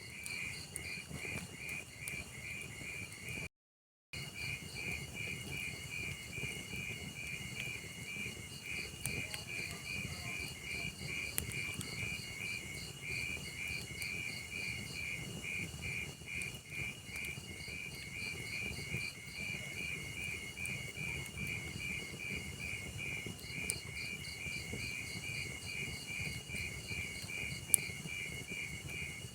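A cricket chirping steadily, about two to three chirps a second, over the low hiss of a wood fire with a few sharp crackling pops. The sound cuts out completely for about half a second early on.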